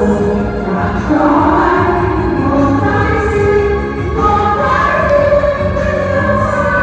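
A Vietnamese song: voices singing long held notes together over instrumental accompaniment.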